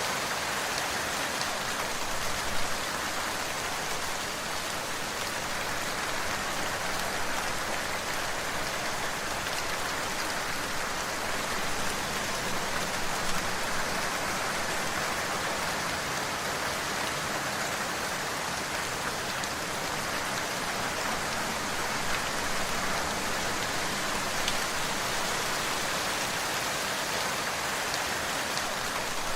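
Steady rain falling, a dense even hiss with occasional sharper drop impacts.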